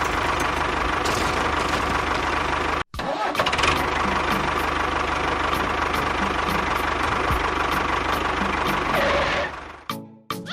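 A motor running steadily with an even mechanical hum. It cuts out abruptly for a moment about three seconds in, picks up again, and fades away near the end.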